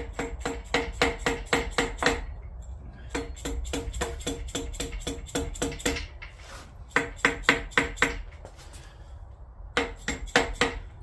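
Socket ratchet clicking as water pump bolts are run into an aluminium engine block: four runs of quick, even clicks, about five a second, with short pauses between.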